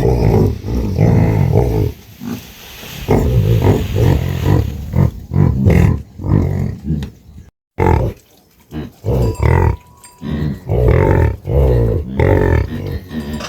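Cattle lowing: a run of loud, low moos one after another, broken by a short silent gap a little past halfway.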